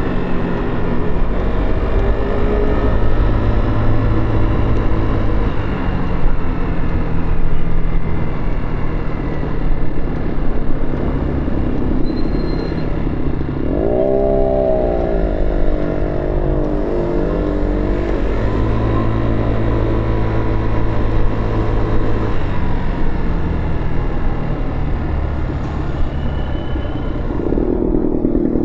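Motorcycle engine running low and steady, then rising in pitch as it accelerates about halfway through, holding for a few seconds and easing off, and starting to rise again near the end.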